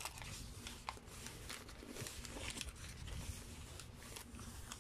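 A man chewing a mouthful of burger close to the microphone, with irregular lip smacks and small clicking mouth noises.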